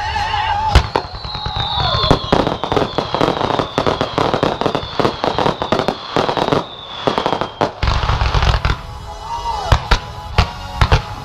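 Fireworks display: a dense run of sharp bangs and crackling shots, with a long whistle slowly falling in pitch over several seconds and a deep rumble of heavier bursts near the end.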